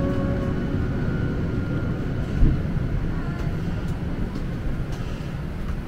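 Steady low rumble and hiss of a Boeing 737-800 cabin after landing, with a single knock about two and a half seconds in.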